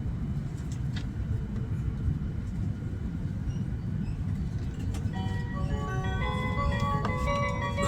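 Low, steady running rumble of an E8 series Shinkansen heard from inside the cabin as the train accelerates. About five seconds in, the onboard chime melody starts playing over it; this melody introduces the conductor's announcement.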